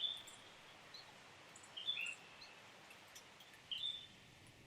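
A bird giving three short, high chirping calls, about two seconds apart, over a faint steady hiss of forest ambience.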